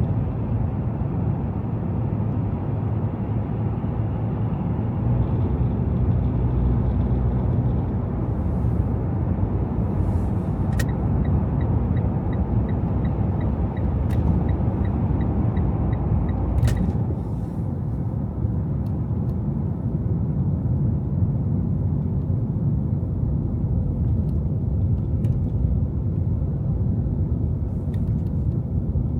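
Car driving along a snowy city street, a steady low rumble of engine and tyre noise. About eleven seconds in, a sharp click starts a fast even ticking that runs for about six seconds and ends with another click.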